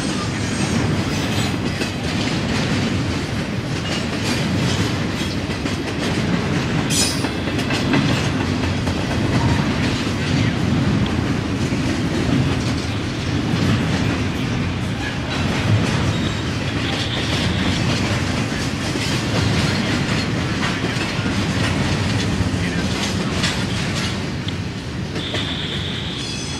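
Double-stack container train's well cars rolling past at speed: a steady rumble with a dense clatter of wheels over rail joints. A brief high wheel screech comes about seven seconds in, and a thin steady squeal sounds near the end as the last cars pass.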